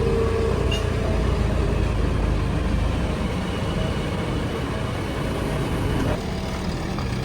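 Diesel engine of a JCB 3DX backhoe loader running steadily at working speed. The sound changes abruptly about six seconds in.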